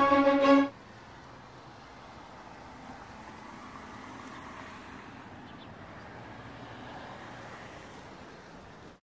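Music ends abruptly under a second in, followed by faint, steady vehicle noise that cuts off just before the end.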